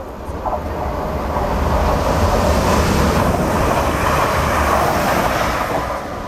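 A train passing through the station at speed: a rushing of wheels on rail that builds up, holds loud for a few seconds, then falls away near the end.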